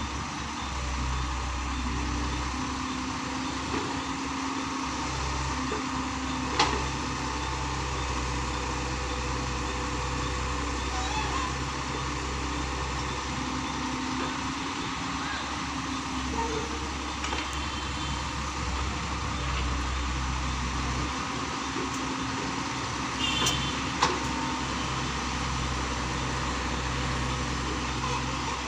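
Komatsu PC130 excavator's diesel engine working as it digs and loads soil, the low engine note rising and easing every few seconds with the hydraulic load. A couple of sharp clicks stand out.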